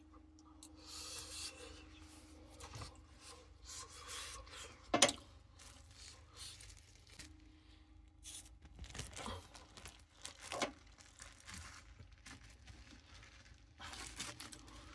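Rustling and rubbing of things being handled, with a sharp knock about five seconds in and another near eleven seconds.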